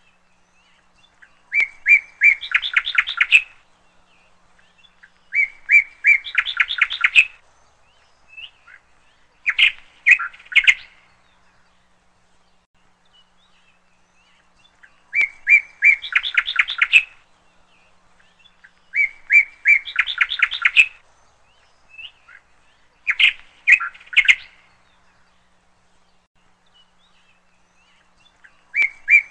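A bird singing the same short phrase about every four seconds, seven times: a few clear notes, then a quick run of notes.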